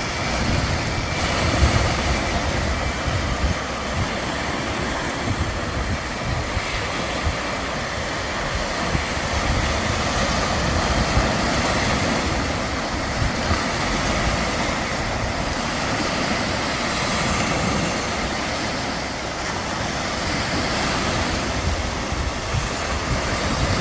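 Steady wind and surf noise, with wind rumbling on the microphone.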